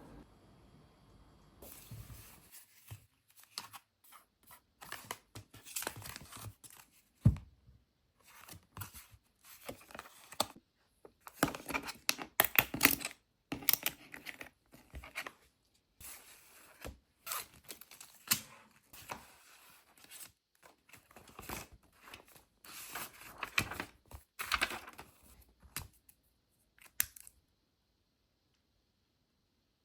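Craft materials being handled by hand: irregular tearing, crinkling and rustling sounds that stop abruptly a few seconds before the end.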